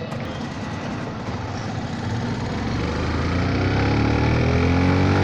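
Motorcycle engine running, then revving up from about two seconds in, its pitch climbing steadily as it gets louder.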